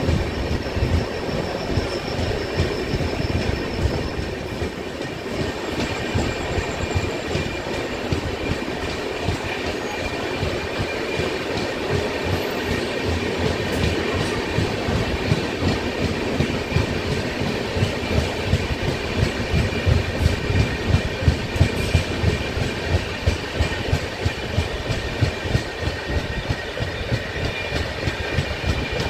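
Indian Railways express passenger train pulling out of a station: a steady running rumble with the wheels clattering over rail joints and points, the clacks growing louder and more frequent in the second half as it gathers speed. A faint steady whine runs underneath.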